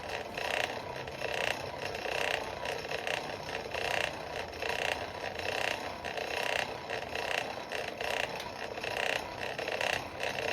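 Forge fire pot under its air blast while a chain link heats for welding: a steady, rough rushing noise that flickers constantly.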